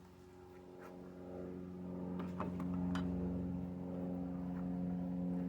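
A steady motor hum that swells over the first two or three seconds and then holds, with a few light clicks.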